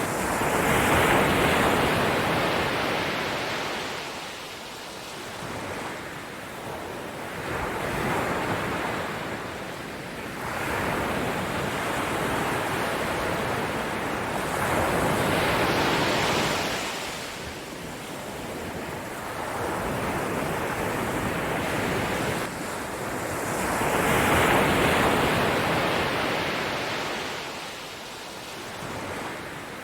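Ocean surf: waves breaking and washing in, the rushing sound swelling and falling back every four to eight seconds.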